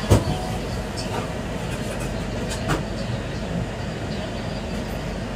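Steady rumble and rattle of a moving passenger train, heard from inside the coach. There is a sharp knock just after the start and a few faint clicks later on.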